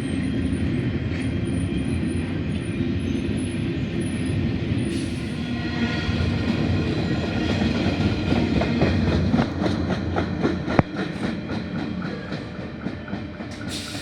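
Sydney Trains Tangara electric multiple unit pulling into a platform and slowing to a stop. A steady rumble of motors and wheels runs throughout, with a run of quick wheel clicks over the track through the middle and one sharp knock, after which the sound dies down.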